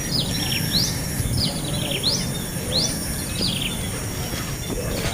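Baby birds making begging calls: a run of short, high chirps, some sweeping up and some sweeping down, several a second, stopping about four seconds in, over a steady low hum.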